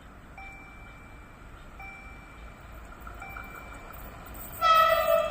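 A level-crossing warning signal gives a repeating two-tone ding about every second and a half. About four and a half seconds in, a train's horn sounds loud and sustained as the train approaches on railway line 25.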